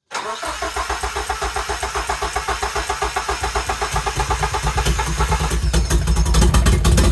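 1987 Nissan 200SX S12 Silvia being cranked over on its starter, a quick even chugging, for about five and a half seconds. It then catches and runs on a cold start, helped by starting fluid after new spark plugs and a rewired fuel relay.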